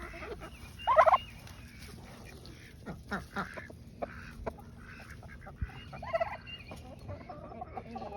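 Backyard poultry calling: a loud call about a second in, another about six seconds in, and shorter calls between.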